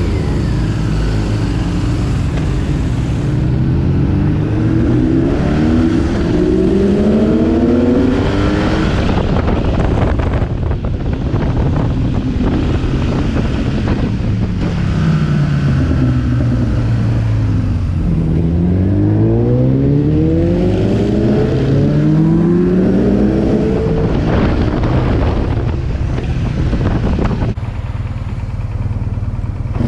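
BMW R 1200 GS boxer-twin engine with an SC Project exhaust, heard from the rider's seat while riding: the engine note rises as the bike accelerates, drops as it slows about halfway through, then climbs again, over steady road and wind noise.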